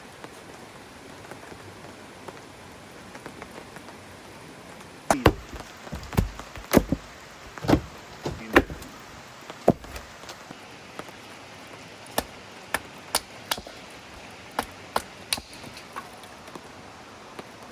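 Steady rain hiss, with heavy raindrops striking a nearby surface: a run of loud, sharp, irregular knocks about five seconds in, then a few single ones later.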